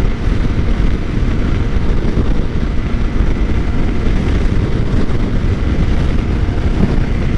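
2013 Suzuki GSX-R600's inline-four running steadily at highway cruising speed, under a loud, even rush of wind and road noise.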